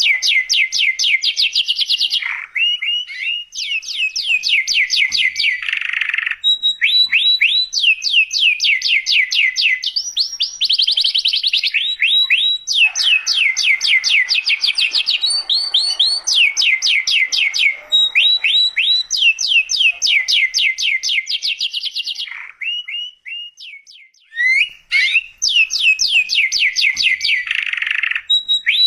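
Domestic canary in full song: long rolling trills of rapid, evenly repeated high notes, in phrases a few seconds long with short breaks between them. There is a brief lull about 23 seconds in.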